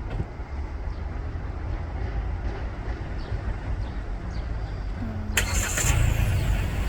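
Steady low rumble of motor traffic, with an engine note sliding down about five seconds in. Just after it comes a sudden, louder rushing noise.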